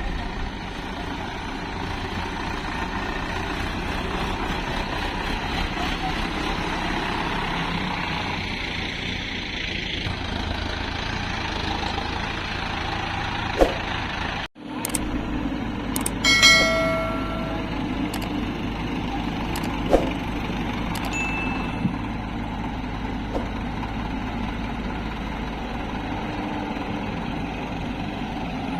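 Diesel engines of an excavator and tractors running steadily, with a few sharp knocks and one brief ringing metallic clang a couple of seconds after the sound cuts out for an instant about halfway through.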